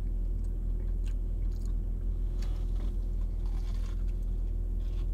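Chewing and crunching of a crispy fried chicken sandwich's breading, with several soft crackly crunches scattered through, over a steady low hum inside a car.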